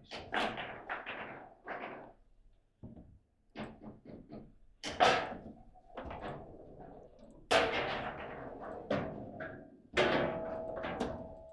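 Table football in play: an irregular run of sharp knocks as the ball is struck by the rod figures and bounces off the table walls. Three heavier slams stand out, about five, seven and a half and ten seconds in.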